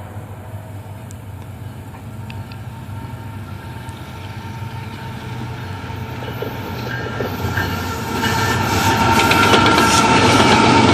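Freight train's diesel locomotives approaching, a low engine rumble that grows steadily louder. About eight seconds in it swells sharply, with a high steady whine and rapid clicking of wheels over jointed rail.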